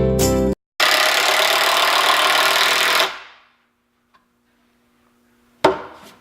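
A power tool runs for about two seconds and then winds down. Near the end there is one sharp knock.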